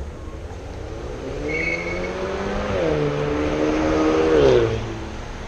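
A motor vehicle's engine accelerating past. Its pitch climbs, drops with a gear change, then falls as it goes by, loudest just before the fall.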